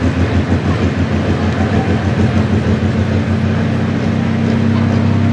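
A pulling truck's engine running: a choppy, pulsing rumble for the first three seconds or so, then a steadier, slightly louder note as the revs come up.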